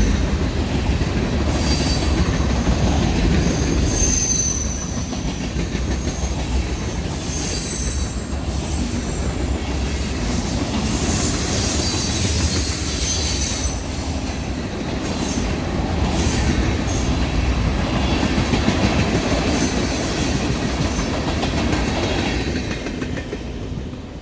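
Freight train's cars rolling past, a steady rumble with wheels clicking over rail joints and intermittent high wheel squeal, fading near the end.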